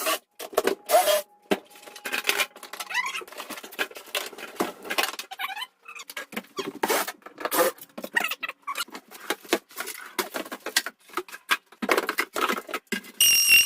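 Rapid, irregular clicking, tapping and rattling, with short squeaks, from parts of a range hood being handled. A high, wavering whistle-like tone begins near the end.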